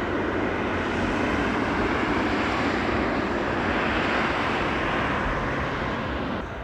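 A passenger jet's engines heard as a steady, even rush of noise. It swells a little midway and falls off near the end.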